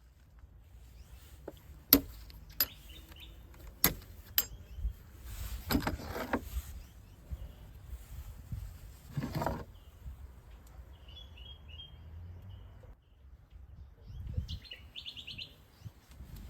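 Hands working the plastic engine air filter housing: four sharp clicks in the first few seconds, then rustling handling of the parts. Short high bird chirps twice in the second half.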